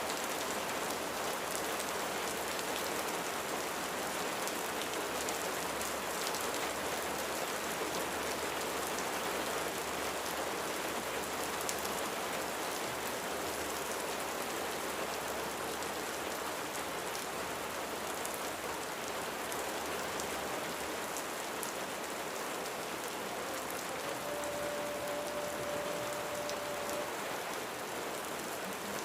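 Steady rain falling, an even patter with many small drop ticks. A faint short tone sounds for about three seconds near the end.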